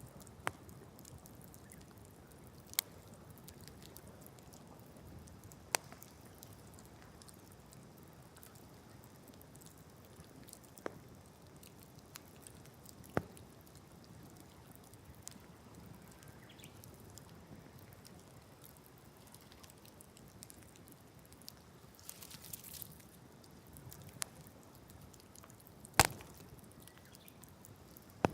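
Wood campfire burning, with sharp, irregular pops and cracks from the wood over a faint steady hiss; a short hissing burst comes about two-thirds of the way through.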